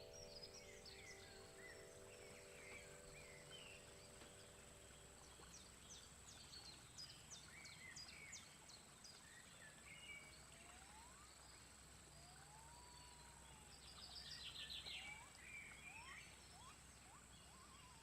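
Faint rainforest soundscape of many birds calling: scattered chirps, quick trills and gliding whistles, some rising, over a steady high whine. A singing bowl's ring fades out over the first few seconds.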